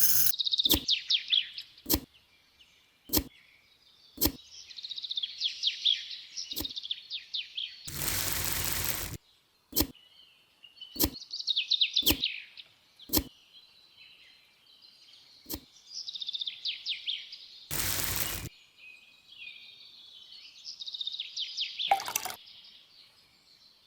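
Birds chirping in quick, repeated phrases, with a sharp click about once a second and two brief bursts of noise, about eight seconds in and near eighteen seconds.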